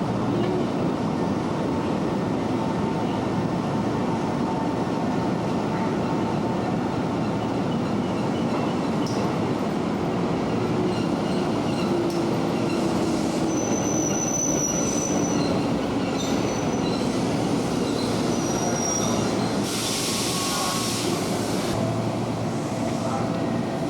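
Sōbu local line 205-series electric train running on the rails with a steady rumble, its wheels squealing briefly twice in the second half. A short hiss comes shortly after the second squeal.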